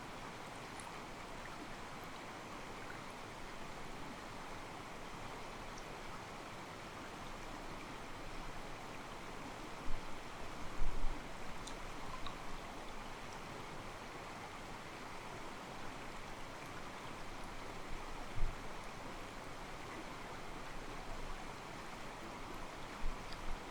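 Mountain stream running steadily over rocks, the water softly sloshing against them. A few short, dull low thumps stand out near the middle and near the end.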